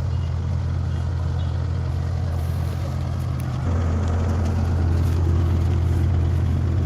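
Heavy diesel engine of a large farm or construction machine running steadily with a deep hum, then building up and getting louder about three and a half seconds in.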